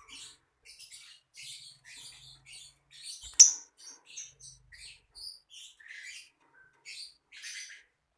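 Lovebird chirping: a run of short, high chirps, about two a second, with one sudden loud, sharp sound about three and a half seconds in.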